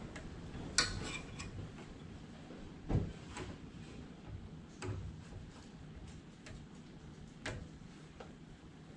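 Scattered clinks and knocks of hand tools and metal parts being handled, about four separate hits over several seconds, the first with a short metallic ring, over a low steady hum.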